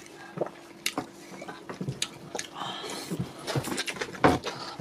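Close-miked eating sounds: wet mouth clicks and smacks while chewing soft fufu and egusi soup eaten by hand, with a louder smack near the end.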